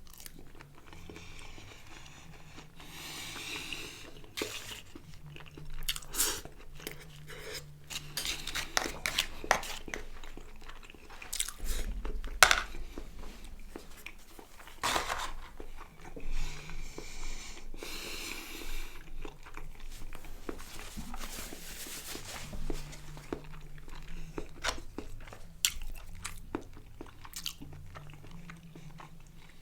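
Close-up eating sounds of a mouthful of chicken kebab with hummus: wet chewing and biting, with scattered sharp mouth clicks and smacks.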